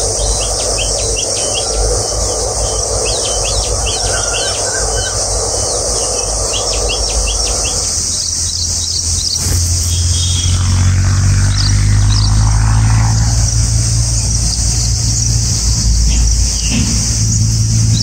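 Small birds chirping in short repeated calls over a steady, high-pitched insect drone. From about ten seconds in, a low rumble joins and grows louder.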